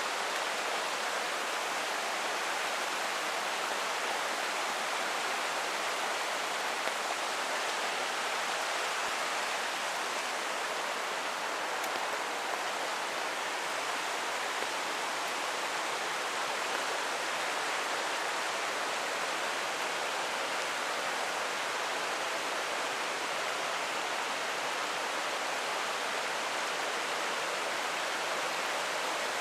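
A creek flowing, a steady unbroken rush of water.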